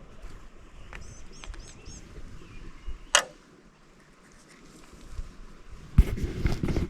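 Outdoor quiet with a few short high bird chirps, a single sharp click about three seconds in, and a cluster of knocks and bumps in the jon boat near the end.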